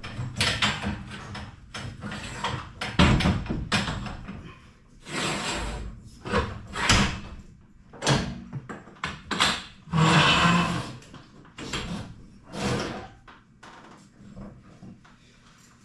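Irregular metallic clanks, knocks and scraping from tools and garage door hardware being worked on. The longer rattling stretches are about 5, 10 and 12 seconds in.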